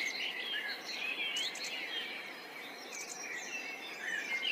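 Many small birds chirping and twittering in short, quickly rising and falling calls over a steady background hiss.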